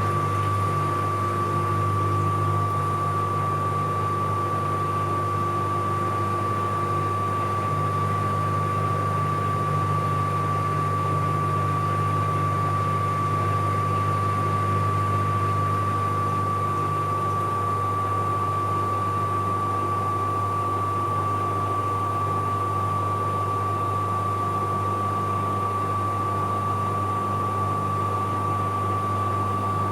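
Bauknecht Super Eco 7615 washing machine spinning at steady speed: a constant hum under a single high whine from its inverter motor, neither rising nor falling.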